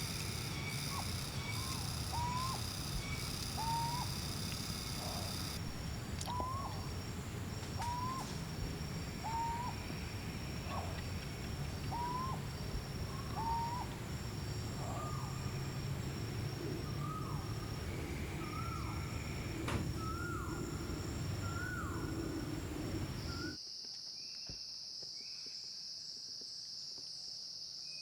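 A bird calling a long series of short, hooked notes, about one a second, climbing slowly in pitch as the series goes on. About 23 seconds in, it cuts to a steady, high-pitched insect drone.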